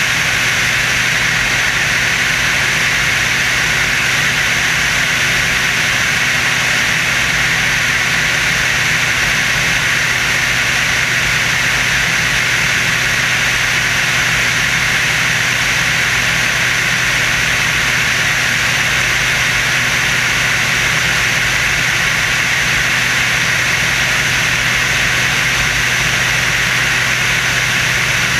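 Steady, unbroken engine drone of the Screamin' Sasquatch aerobatic biplane heard on board, with a constant hum under a loud hiss.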